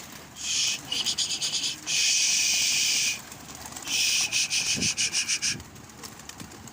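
Pigeons cooing softly under a loud, high-pitched rasping buzz that comes in fast pulses, holds steady for about a second, then pulses again before stopping about five and a half seconds in.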